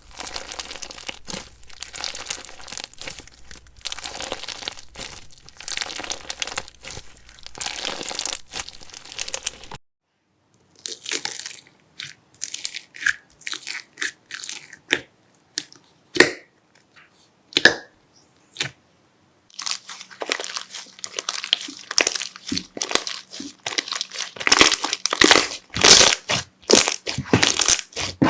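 Slime being worked and squeezed, giving off dense crinkly crackling. About ten seconds in it breaks off to scattered single pops and clicks. Dense crackling returns, louder, after about twenty seconds.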